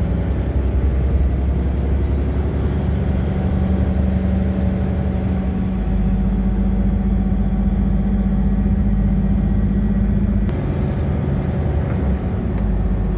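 Bus engine and road noise heard from inside the cabin as the bus climbs a mountain road; the engine hums steadily, its note shifting about six seconds in and again about ten seconds in.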